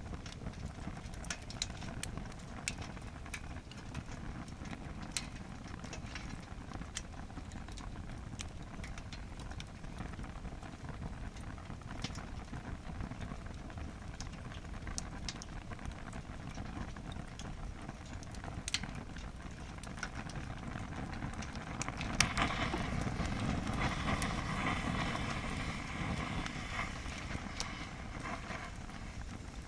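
Wood fire burning in a campfire stand, crackling with sharp pops scattered through. About two-thirds of the way in, a louder rushing hiss swells for several seconds, then eases.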